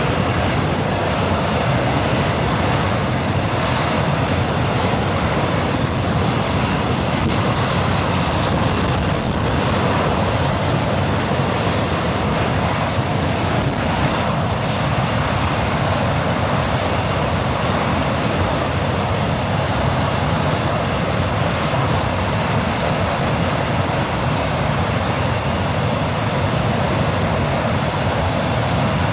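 English Electric Lightning's No1 engine, a Rolls-Royce Avon turbojet, running steadily during a ground test run: a loud, even rush of jet noise with no change in pitch or level.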